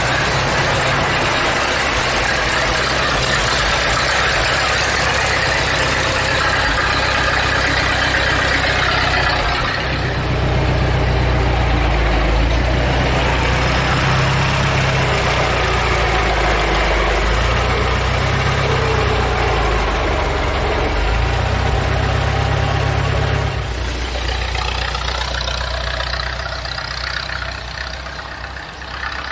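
Car engine running through a newly finished exhaust system. The low exhaust note grows heavier about ten seconds in, and the sound fades over the last few seconds.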